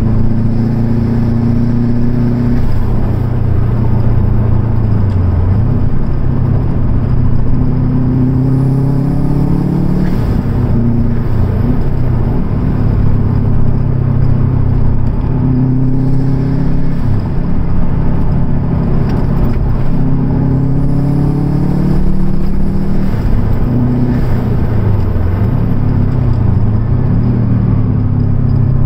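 Car engine heard from inside the cabin while driving, its pitch rising under acceleration and dropping back several times, over steady road and tyre noise.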